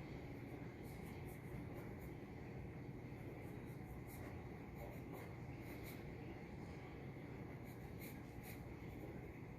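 Pencil scratching on paper in short, irregular strokes, as in shading or sketching, over a faint steady hum.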